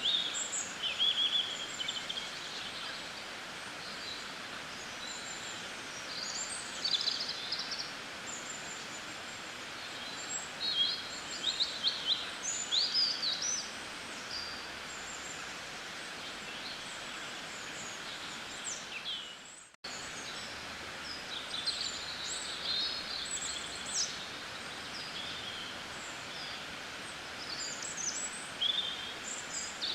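Small birds chirping and twittering on and off over a steady background hiss. The sound drops out for a moment about twenty seconds in.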